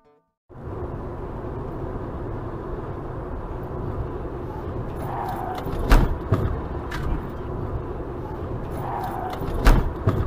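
Car on the road with steady engine and road rumble, broken by two sharp thumps about six and nine and a half seconds in.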